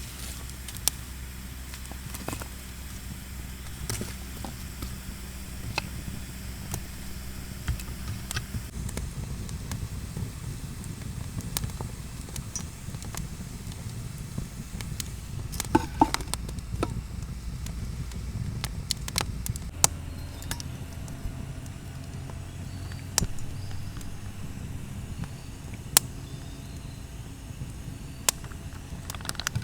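Wood campfire crackling, with sharp irregular pops scattered throughout over a low rumble, and a brief wavering pitched sound about halfway through.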